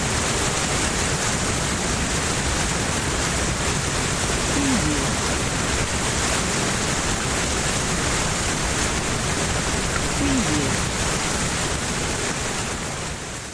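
Powerful, fast-flowing water rushing steadily, a dense even hiss across all pitches, fading out over the last second.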